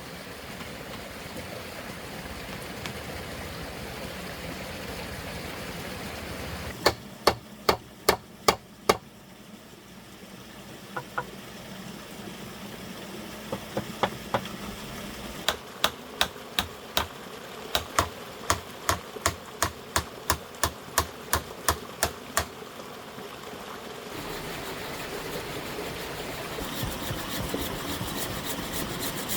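Sharp knocks of something being struck, about two a second: a quick run of six, a few scattered blows, then a long steady run, over a steady rushing background.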